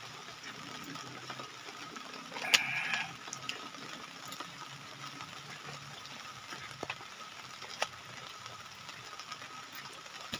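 Light drizzle pattering steadily, with a few small handling clicks; the loudest click, about two and a half seconds in, is followed by a short scrape.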